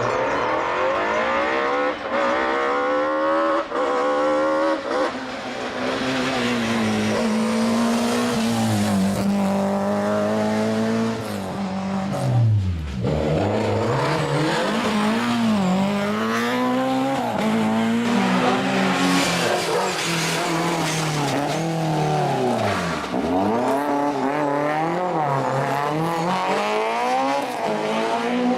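Four-cylinder car engine driven hard, revving up and dropping back again and again as it accelerates and changes gear. Its pitch plunges deeply twice, about halfway through and again later, before climbing again.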